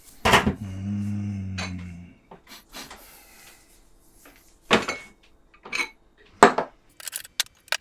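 Cutlery clinking and tapping against dishes while eating: a few separate sharp clinks, then a quick run of small clicks near the end. A low steady hum lasts about a second and a half near the start.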